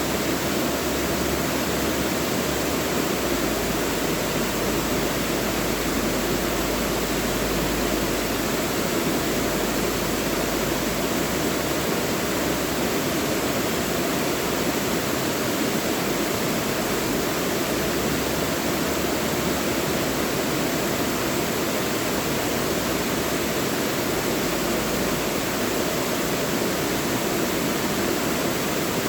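Mountain valley stream rushing over rocks, a steady unbroken hiss of flowing water.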